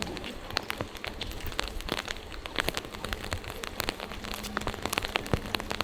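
Rain falling, with many sharp, irregular drop ticks close to the microphone over a steady hiss.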